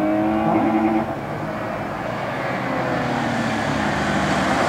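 BMW E30 325i's straight-six with a Supersprint muffler accelerating hard, its note climbing in pitch, then lifting off abruptly about a second in before pulling again at a steadier, rising drone.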